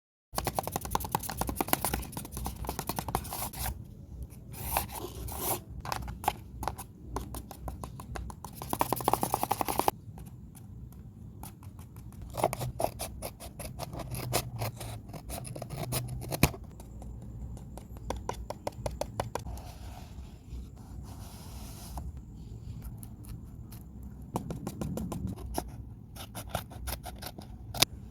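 Paper and tape of a paper squishy being handled and worked: dense crinkling and scraping with rapid clicks and snips, heaviest in the first ten seconds, then lighter crackling with scattered clicks.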